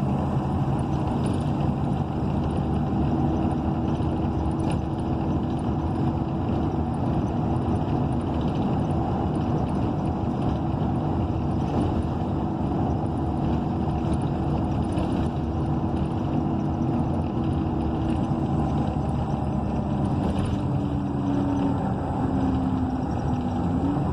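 Interior of a 2012 ENC EZ Rider II transit bus under way: its Cummins Westport ISL G natural-gas engine and Allison automatic transmission hum steadily with road noise. Near the end the engine note dips, then climbs again as the bus slows and picks up speed.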